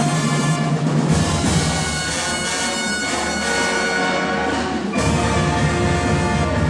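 Brass-led band music playing held chords over a low bass line that changes note about a second in and again near five seconds in.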